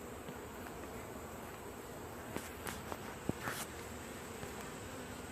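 Honey bees buzzing steadily around open hives, with a few faint clicks about halfway through.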